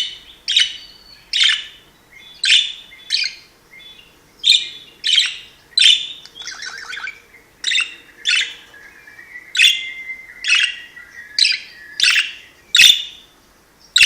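Budgerigar giving loud, sharp chirps over and over, about one or two a second and often in pairs, with a short burst of rougher chatter partway through.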